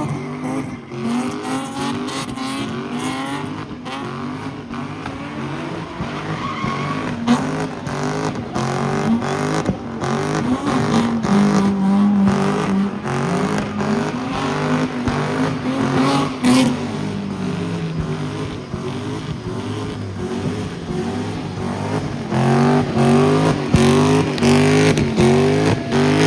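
Car engines revving hard, the revs rising and falling again and again, with tyres squealing as cars spin doughnuts.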